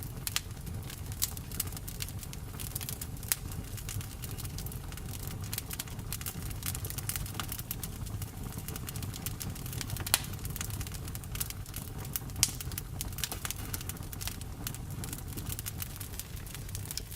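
Campfire crackling: frequent sharp pops and snaps of burning wood over a steady low rumble, with a few louder pops scattered through.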